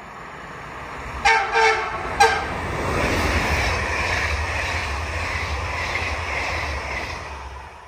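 A train's horn sounds three short toots within about a second, then the train passes with a steady rumbling rush that fades away near the end.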